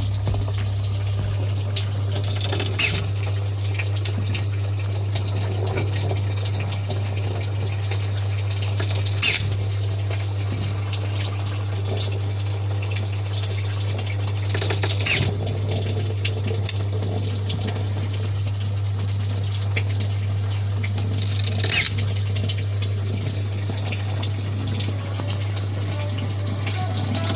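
Steady rush of running water, with a constant low hum underneath and a few brief clicks.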